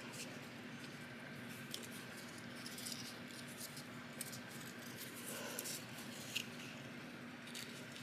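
Faint rustling and light scattered clicks of paper being handled and folded, over a low steady hum.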